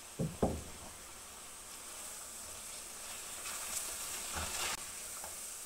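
Chicken pieces with onion and tomato cooking in oil in an aluminium pot, a faint steady sizzle. There are two soft knocks just after the start, and from about three to nearly five seconds in a silicone spatula stirs and scrapes through the pan.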